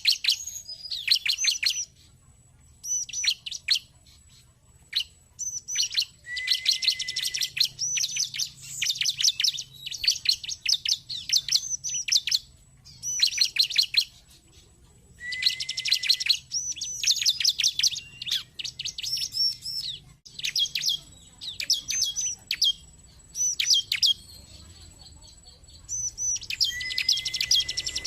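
Bar-winged prinia (ciblek) song: rapid, high chattering trills delivered in repeated bursts of one to three seconds with short pauses between them. It is a lure recording meant to provoke captive ciblek into singing.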